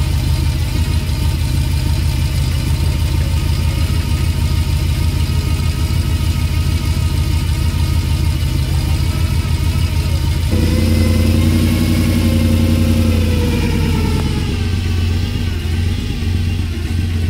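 1981 Ford F-250's engine idling steadily, then revved about ten seconds in, its pitch and loudness rising and holding for a few seconds before settling back down near the end.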